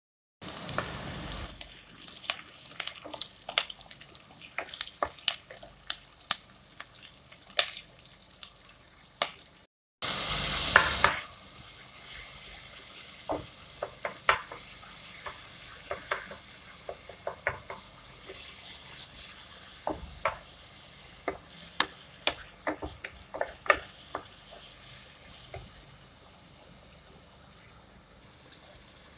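Sliced onions and ginger-garlic paste frying in hot oil in a pan, sizzling steadily while a wooden spatula scrapes and taps against the pan in many short clicks. About ten seconds in, after a short break, a loud hiss lasts about a second before the sizzle settles and slowly fades.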